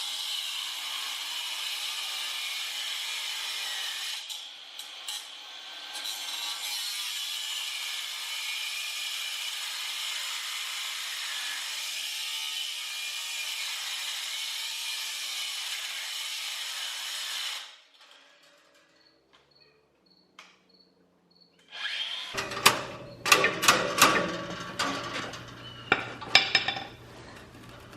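Angle grinder cutting through the steel hog panel wire wrapped around a tiller: a steady high grinding that dips briefly about four seconds in and stops after about seventeen seconds. A few seconds later comes a run of sharp metal knocks and rattles.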